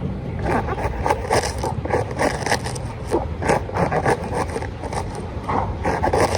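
Knife slicing through a cabbage: a run of short, crisp cuts a few times a second, over a steady low hum.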